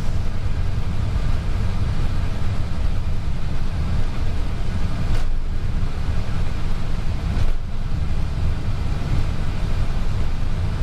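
Airbus A320 cockpit noise while taxiing: a steady low rumble of engines at idle, airflow and ground roll. Two faint brief knocks about halfway through and again two seconds later.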